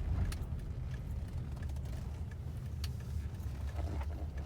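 Low, steady rumble of a car's engine and road noise heard from inside the taxi's cabin, with a few faint clicks.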